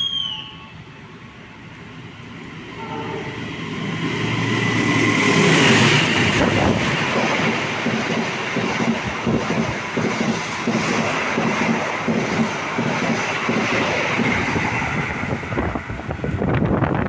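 Diesel-hauled express train approaching and passing through at high speed: the locomotive's engine rumble builds from a few seconds in, then a long train of carriages goes by with a quick, steady clatter of wheels over the rail joints.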